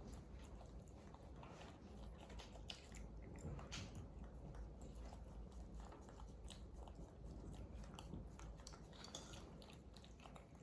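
Baby monkeys eating rice, chewing and smacking with faint, irregular small clicks.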